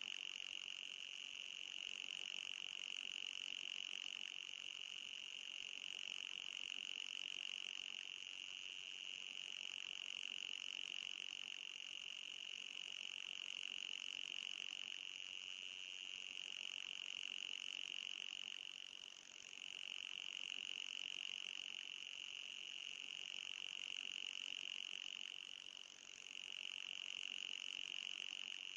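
Mosquito-repellent sound effect: a continuous high-pitched electronic tone with a fainter, higher tone above it. It briefly dips and falls in pitch twice, about two-thirds of the way through and again near the end.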